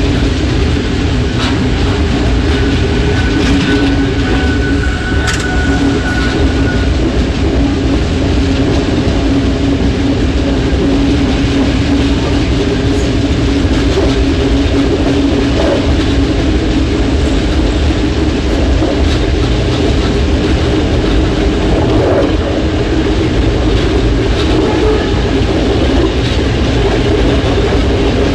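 Train running along the track, heard on board at the rear: a steady rumble of wheels on rail with a few scattered clicks. A faint high whine sounds for a few seconds near the start.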